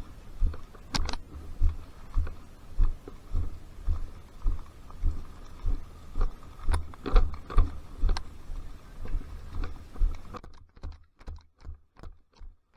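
Footsteps thudding at a body-worn camera about two to three times a second as the player moves, with a few scattered sharp clicks over them.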